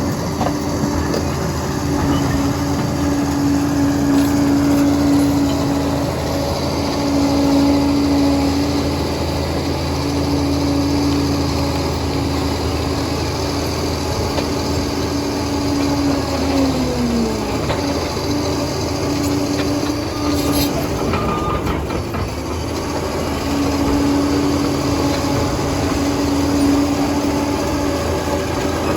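Liebherr 746 crawler dozer working, its diesel engine and drive running under load with a steady whine that swells and eases every few seconds. The whine drops away about two-thirds of the way through and comes back near the end, over a continuous clatter of the tracks.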